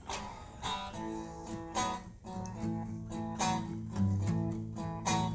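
Guitar strumming chords in a slow blues, the instrumental opening of a song, with sharp strums about once or twice a second.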